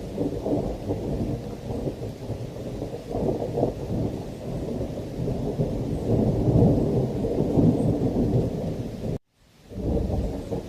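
Thunderstorm ambience: continuous low rumbling thunder with rain, swelling in the middle. About nine seconds in it cuts off suddenly to a split second of silence, then fades back in, as at the seam of a looped recording.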